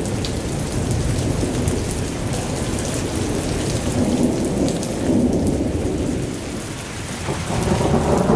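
Heavy rain pouring steadily on surfaces, with a deep low rumble underneath and a brief slight easing about seven seconds in.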